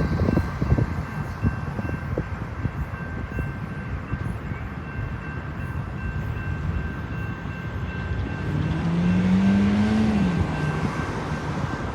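A train rolls past with its wheels clicking over rail joints for the first couple of seconds, then a steady rumble. Near the end a motor's tone rises for about a second and a half, then drops away.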